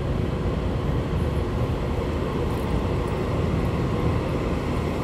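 Taiwan Railway EMU3000 electric multiple unit pulling into the platform: a steady low rumble of wheels on rail with a faint motor hum, growing a little louder as the train comes closer.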